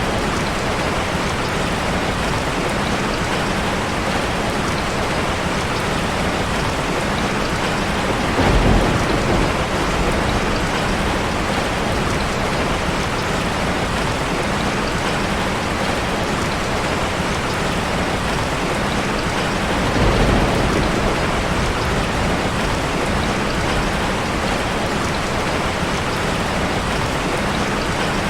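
Heavy rain drumming steadily on a car. Two short, louder low rumbles rise out of it, about a third of the way in and again about two-thirds through.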